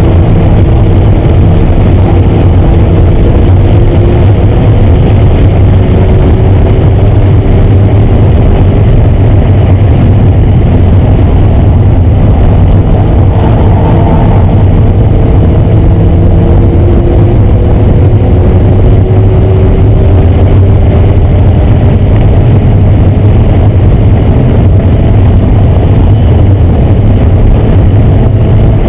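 Car engine heard from inside the cabin at high revs during a hard track lap, loud and constant over a heavy low rumble. Its pitch climbs slowly under acceleration, drops off about halfway through as the car slows for a corner, then climbs again.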